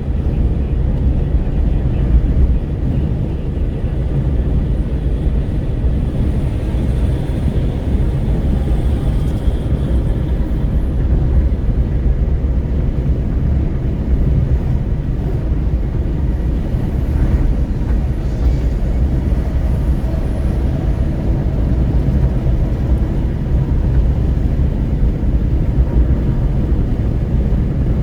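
Wind buffeting through an open car window of a Renault Kwid at road speed, mixed with tyre and road noise: a steady, mostly low rush that barely changes.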